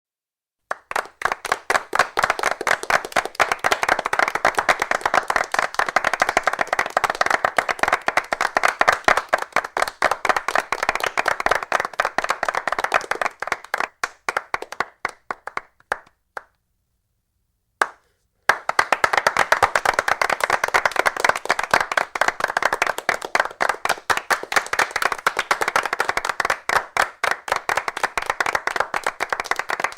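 A small group of people applauding, with individual claps distinct. The applause thins out and stops a little past halfway, and after a short pause a new round of clapping starts up.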